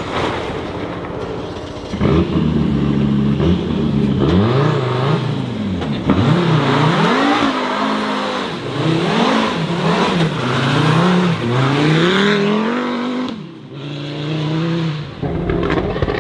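Rally car engine revving on a gravel stage, its pitch rising and falling again and again as it goes through gear changes and lifts, over a steady haze of tyre and gravel noise. The sound dips briefly near the end before engine noise returns.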